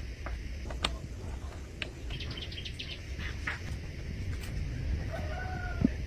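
A few sharp clicks and a quick run of light ticks over a steady low rumble, with a short pitched call near the end.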